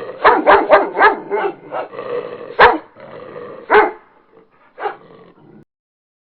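A dog barking: a quick run of barks, then three louder single barks about a second apart, stopping about five and a half seconds in.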